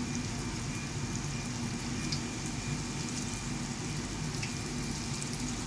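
Chicken rolls wrapped in spring roll sheets frying in oil over a low flame: a steady, even sizzle with small scattered crackles.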